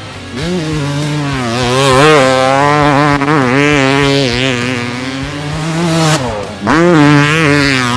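Dirt bike engine being ridden under throttle, its pitch climbing, then holding and wavering with the throttle. About six seconds in the note drops briefly, as in a lift-off or gear change, then climbs again.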